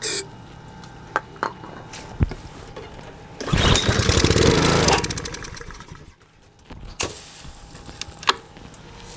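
Honda GCV160 single-cylinder mower-type engine pull-started on starting fluid sprayed into the carburettor: it fires and runs for about a second and a half, then dies away. Running only on starting fluid shows the engine itself is good and points to a carburettor problem, as the owner takes it. A few clicks of handling come before and after.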